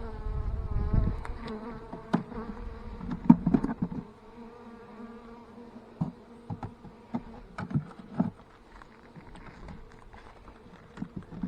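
Italian honeybees buzzing in an opened hive: a steady hum, with scattered knocks and clicks, the loudest about three seconds in.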